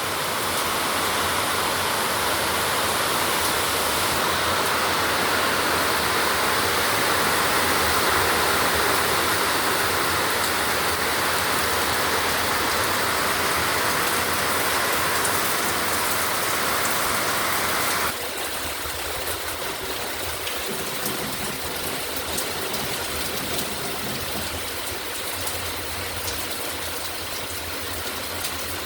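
Heavy rain pouring down as a steady rush. About 18 seconds in it suddenly drops to a quieter rain with scattered ticks.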